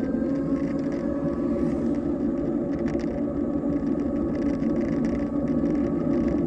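Schwinn Hurricane e-bike's electric motor whining while riding, its pitch creeping up slightly at first, then steady. Over it runs a constant rush of wind and tyre noise.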